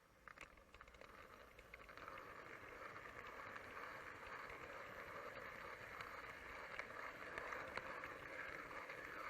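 A 00 gauge model train running on the track, its motor and wheels making a steady rumble that grows gradually louder, with a few light clicks near the start.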